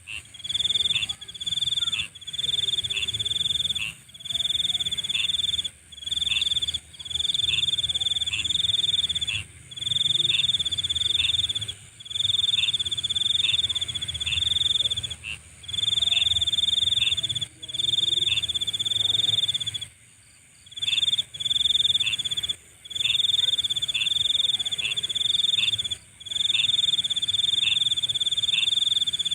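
Nighttime insect chorus: a loud, high pulsing trill in repeated phrases of one to two seconds with brief breaks, laced with short chirps that drop in pitch, over a steady higher-pitched insect drone.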